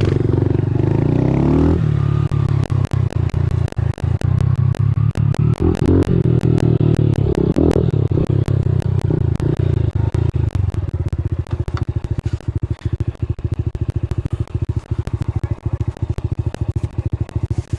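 A small single-cylinder four-stroke pit bike engine running under way, its pitch rising and falling with the throttle, with a dense clatter of sharp knocks and rattles that grows thicker in the second half.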